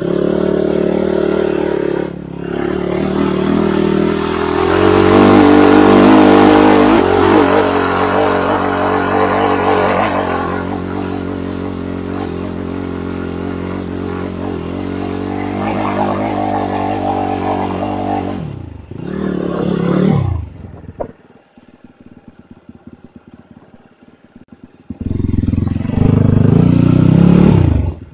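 Enduro motorcycle engine running hard under load, its revs rising and falling as it climbs over rough ground, with some clatter. About twenty seconds in the revs fall away to a low, uneven idle for a few seconds, then the engine revs up sharply again and cuts off near the end.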